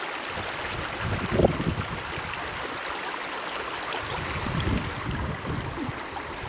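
Stream water rushing steadily over rocks, with irregular gusts of wind buffeting the microphone.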